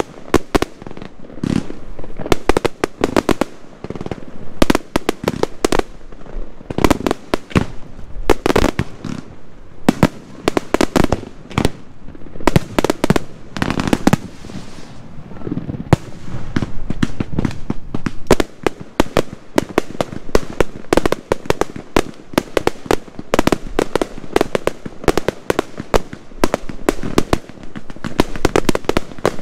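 Aerial fireworks display: shells bursting in quick succession, a near-continuous run of sharp bangs and crackles that grows denser in the second half.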